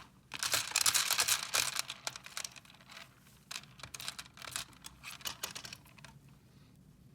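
Rapid clicking and rattling of small hard objects, densest for the first couple of seconds, then thinning to scattered clicks that stop near the end.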